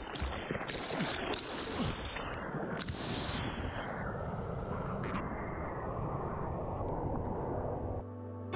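Steady rushing of wind and surf at a shoreline during a typhoon swell, with a few sharp knocks in the first three seconds; music comes in right at the end.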